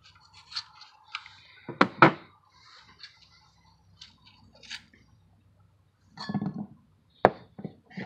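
Sharp metal knocks and clinks, with small scrapes and clicks in between, from prying apart a cut-open spin-on oil filter. The loudest knocks are a pair about two seconds in and another about seven seconds in.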